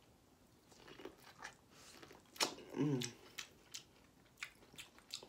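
Close-miked chewing of food, a run of wet smacking clicks about three a second starting around two and a half seconds in, with a brief hum of voice just after the chewing begins.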